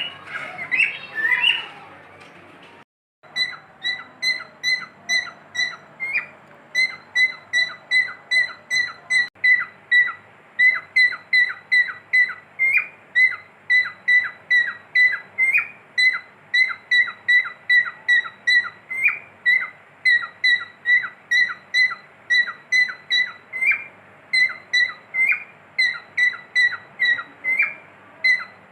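Cockatiel chirping over and over: short whistled notes, all at the same pitch, each ending in a quick downward drop, about three a second in a steady run. The run starts after a short break about three seconds in.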